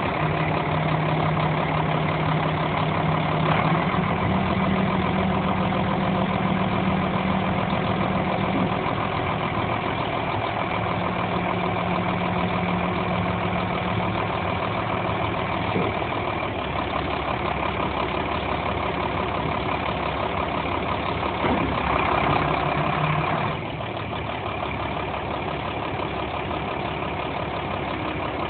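Kenworth T800 dump truck's diesel engine idling steadily. There is a brief louder stretch about three-quarters of the way through, and after it the sound settles slightly quieter.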